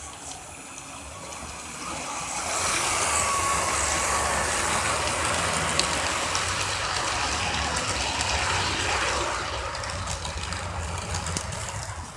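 Model train running on the layout's track, the motor humming and the wheels running on the rails. It grows louder about two seconds in as the train passes close, then slowly fades as it moves away.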